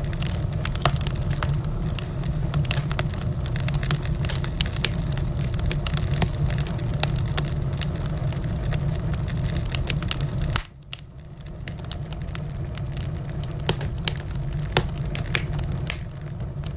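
Wood fire in a fireplace crackling, with frequent sharp pops over a steady low rumble. About ten and a half seconds in, the rumble drops away suddenly and then slowly builds back while the crackling goes on.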